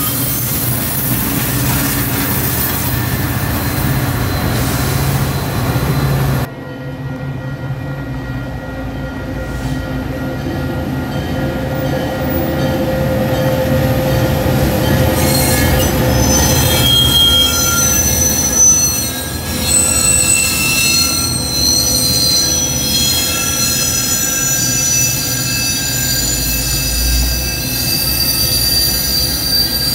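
Metra commuter train rushing past close by on steel rails. After a sudden drop about six seconds in, a Metra diesel-hauled train rolls through curved track, and in the second half its wheels squeal in several steady high pitches.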